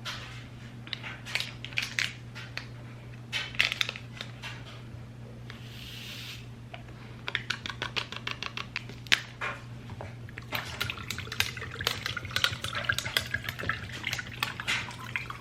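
Glass, ice and a utensil clinking and rattling in a jar as a drink is mixed: irregular sharp clinks, busier in the last few seconds, with a short hiss about six seconds in.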